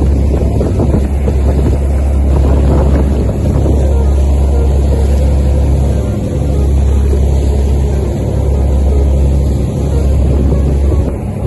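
Boat engine running with a steady low drone, with wind on the microphone.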